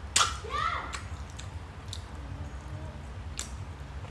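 Close-miked eating sounds: a sharp click just after the start, a short high-pitched call about half a second in, then quieter chewing with scattered small clicks.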